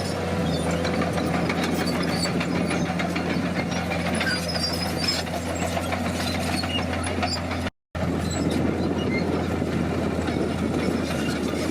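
Komatsu D50PX bulldozer's diesel engine running steadily under work, with rattling and clanking over the drone. The sound drops out completely for a split second about eight seconds in.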